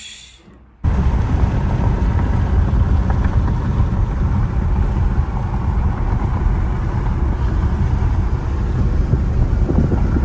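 Car running, a steady low rumble that starts abruptly about a second in.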